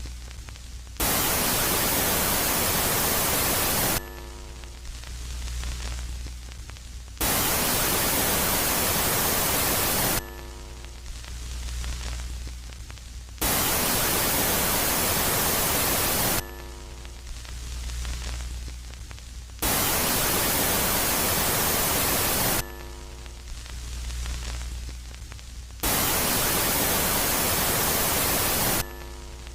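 Synthesized space-ambience track alternating between a loud phase of even, hiss-like static lasting about three seconds and a quieter phase of low hum with faint steady tones. The loud static comes back about every six seconds, five times.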